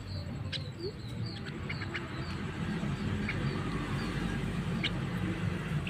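Javan myna giving scattered short, sharp chirps and clicks, over a steady low hum.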